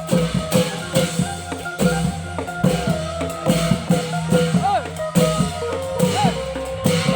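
Thai klong yao long-drum ensemble playing: many fast drum strokes a second over steady low tones, with a melody line above that slides and bends in pitch.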